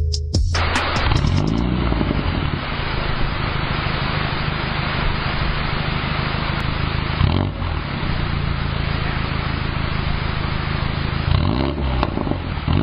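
Mini Cooper Countryman S F60's turbocharged four-cylinder engine running under load through a full aftermarket exhaust system, a steady loud exhaust note with a brief dip about seven and a half seconds in and revs rising near the end.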